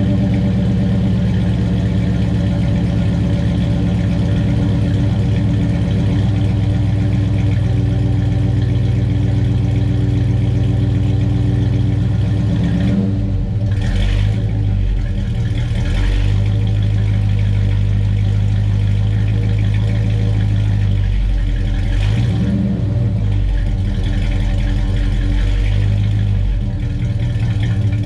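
Chevelle engine running through a new 2.5-inch dual exhaust with single-chamber mufflers, a steady exhaust note with a tin-can edge. The revs change about halfway through and again a few seconds later.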